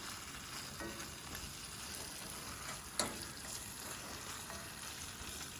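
Chili sizzling as it heats in a pan on the stove, a steady frying hiss, with a single sharp knock about three seconds in.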